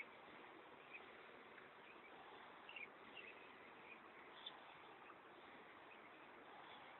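Near silence: a faint, steady background hiss with a few faint, short high ticks or chirps scattered through it.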